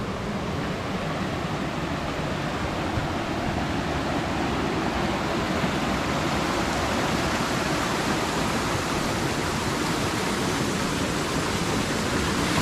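Stream water rushing heavily over rocks, a steady even rush that grows slightly louder. The flow comes from a waterfall just upstream.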